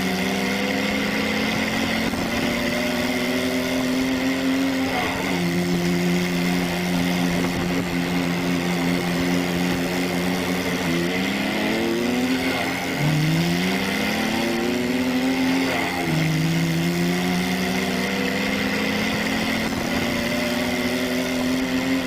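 Remote-control toy tractor's engine sound: a pitch that climbs slowly over several seconds and then drops back suddenly, over and over, with a steady high whine underneath.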